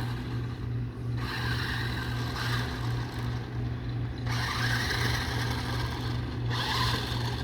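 New Bright toy-grade RC monster truck driving over grass, its motor and gears whirring in spurts as the throttle comes on and off, over a steady low hum.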